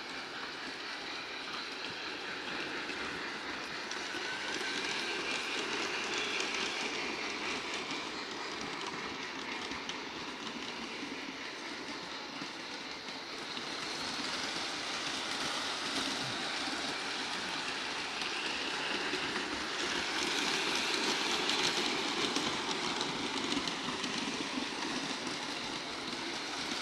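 Bachmann Big Hauler G-scale model locomotive running on its track at moderate speed: a steady electric motor whir with wheel clatter on the rails, swelling and fading a few times as it runs.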